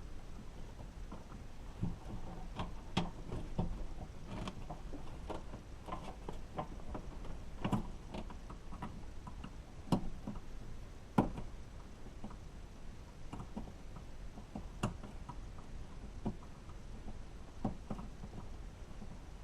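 Irregular clicks and knocks of hands and tools working parts loose inside a car door during lock actuator removal, with two sharper knocks about ten and eleven seconds in.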